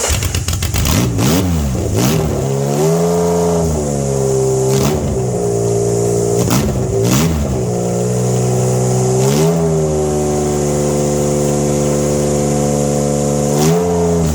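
Honda Goldwing GL1500 flat-six engine running on its first start, on an untuned base map. It is blipped up in revs several times and falls back each time to a steady idle. About a second in there are a few clicks while the revs rise and fall quickly.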